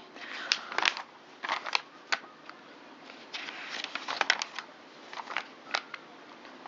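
Glossy paper catalogue pages being handled and turned: a string of short, crisp rustles and clicks.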